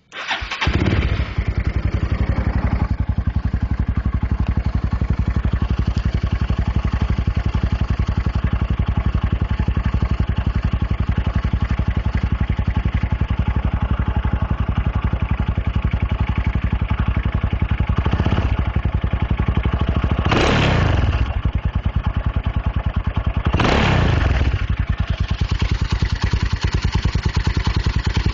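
Honda Tiger Revo motorcycle's single-cylinder four-stroke engine, breathing through its original muffler with the baffles gutted out. It starts up and settles to a loud, even idle of rapid exhaust thumps. The throttle is blipped lightly about two-thirds of the way through, then revved sharply twice more soon after, each rev falling back to idle.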